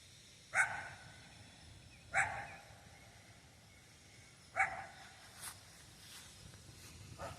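A dog barking: three single barks, roughly one and a half to two and a half seconds apart.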